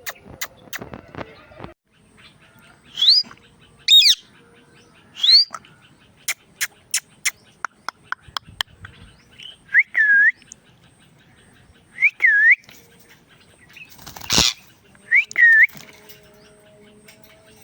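Indian ringneck parrot whistling: three quick upward whistles, then three dipping, U-shaped whistles, with scattered sharp clicks between them. One short harsh burst comes between the last two whistles.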